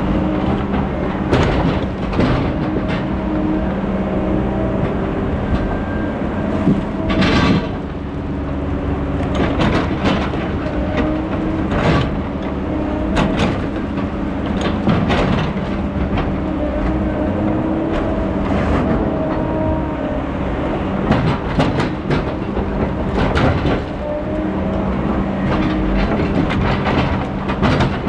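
Heavy logging equipment's diesel engine running steadily, with irregular metal clanks and knocks over it.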